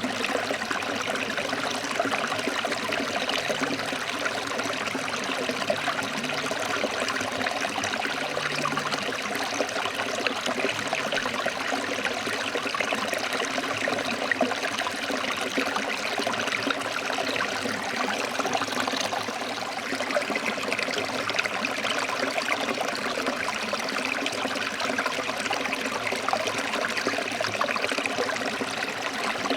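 Forest stream flowing over rocks, a steady rushing and trickling of water with no breaks.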